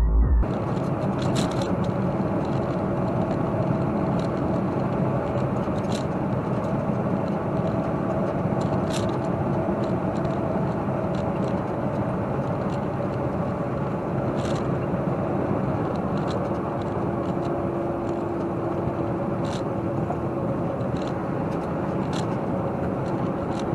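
Semi truck driving, heard from inside the cab: steady engine and road noise with a low hum and a few faint ticks.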